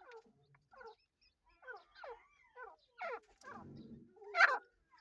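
A series of short, squeaky animal calls, each falling in pitch, coming closer together and louder toward the end.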